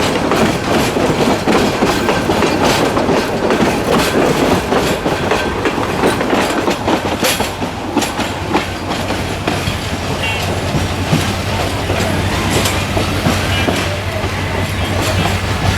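Dolonchapa Express passenger train rolling past at speed, its wheels clacking over the rail joints in a continuous rushing rumble. A steady low hum joins in about halfway through.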